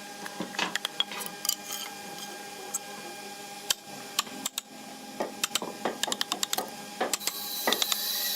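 Workshop tool noises: many irregular sharp clicks and taps over a steady hum, with a hiss coming in near the end.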